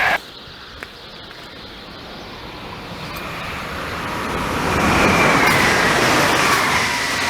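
A train approaching and passing: its running noise grows steadily to its loudest about five seconds in, with a whine that drops in pitch as it goes by.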